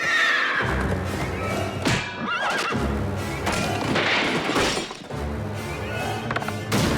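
Dramatic cartoon background music with a pulsing low beat, and a horse whinnying over it about two seconds in; a sharp hit sounds near the end.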